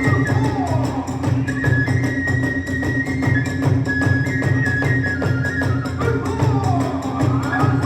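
Hiroshima kagura hayashi: a bamboo flute plays high held notes that step in pitch over a fast, steady beat of taiko drums and clashing hand cymbals.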